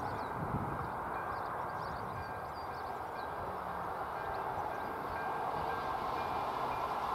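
Distant locomotive-hauled passenger train approaching on the track: a faint, steady rumble that grows a little louder toward the end.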